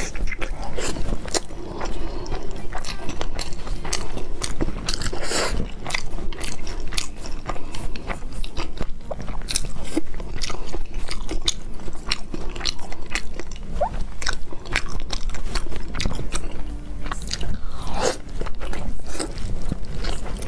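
A person biting and chewing salmon-wrapped sushi, a dense run of small clicks from the mouth.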